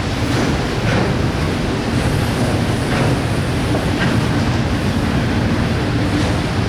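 Freight train cars rolling past on the mainline: a steady rumble of steel wheels on rail, with an occasional click from the wheels.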